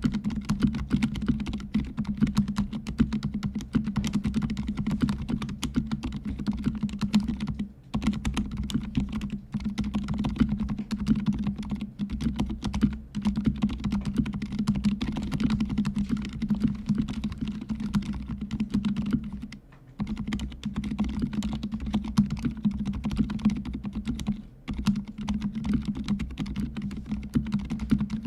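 Fast, continuous typing on a fully lubricated mechanical keyboard with silent red (linear) switches. The keystrokes are soft and muffled, with short pauses about 8, 20 and 24 seconds in.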